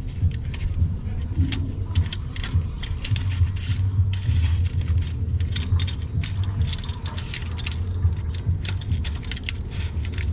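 Irregular metallic clicking and clinking of a wrench tightening the nuts on exhaust muffler clamps, over a steady low hum.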